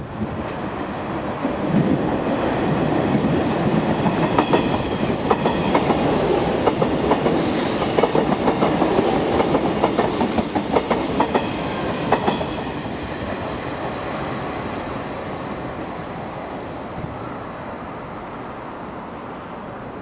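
JR West 381 series electric train passing through a station without stopping, its wheels clicking over the rail joints. It grows loud about two seconds in, stays loud for about ten seconds while the cars go by, then fades as it runs away.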